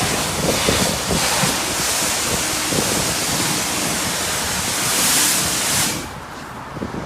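High-pressure spray wand at a self-service car wash blasting onto a car, a loud steady hiss that cuts off suddenly about six seconds in when the trigger is released, leaving a lower background rumble.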